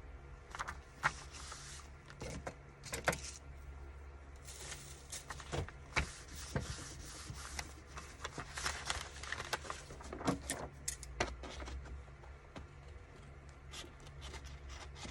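Paper and craft materials being handled at a desk: rustling paper with many short sharp clicks and taps, over a steady low hum.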